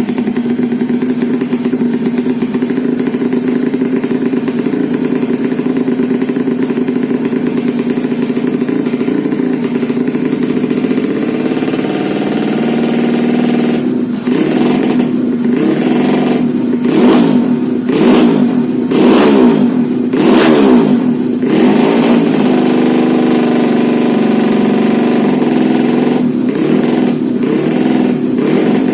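Modified 125 cc four-stroke underbone motorcycle engine idling steadily, then revved hard in a quick series of about half a dozen throttle blips before settling back to idle, with a few lighter blips near the end.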